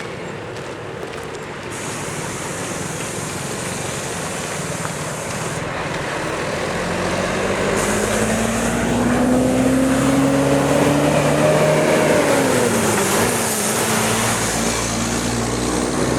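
A motor vehicle's engine drawing nearer and getting louder, its pitch rising steadily, then dropping about twelve seconds in, over a steady rush of outdoor noise.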